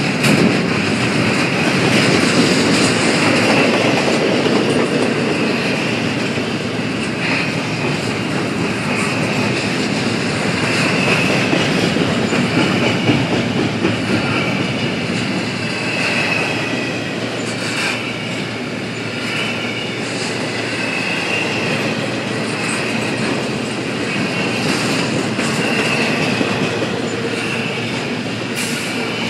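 Double-stack intermodal freight cars rolling past: a steady rumble of steel wheels on rail with scattered clicks over rail joints and a thin, wavering high wheel squeal that comes and goes.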